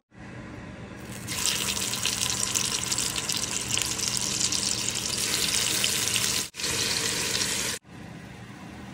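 Marinated chicken pieces sizzling in hot oil in a cast-iron pot: a steady hiss that starts about a second in, over a low steady hum. The sizzle cuts off abruptly twice near the end and is quieter after the second break.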